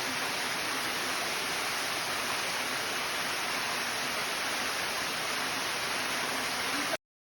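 Steady rushing of a waterfall and creek, which cuts off abruptly near the end.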